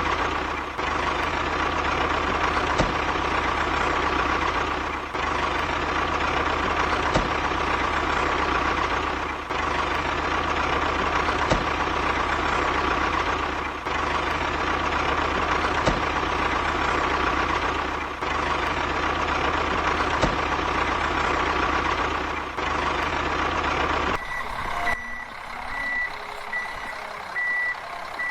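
Truck engine running steadily, its sound dipping at an even beat about every two seconds. About 24 seconds in, the engine sound drops away and a reversing beeper starts, beeping at a steady high pitch about twice a second.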